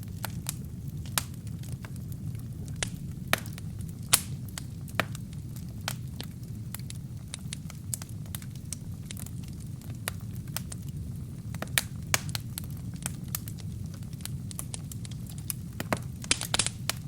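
Wood fire burning in a fireplace: a steady low rumble of the flames with irregular sharp crackles and pops from the burning logs, a loud pop about four seconds in and a quick cluster of crackles near the end.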